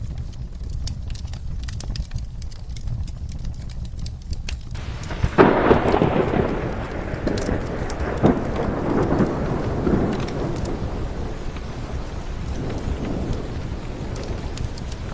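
Rain falling with a thunderclap about five seconds in that rolls on and slowly fades. Sharp crackles of a wood fire can be heard over a low rumble before it.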